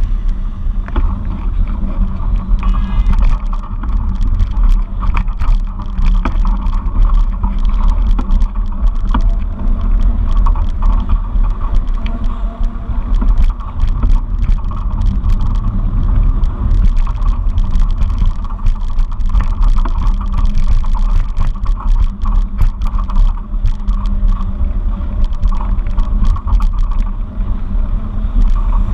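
Wind rumbling on the microphone of a riding camera, with steady road noise and frequent small clicks and rattles.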